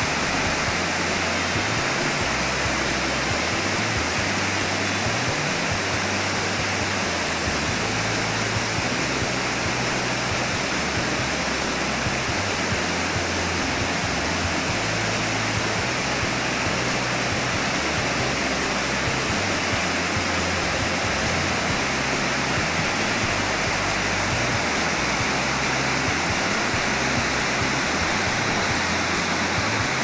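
Steady rushing of a waterfall and river rapids, water tumbling over rocks, with low background music underneath.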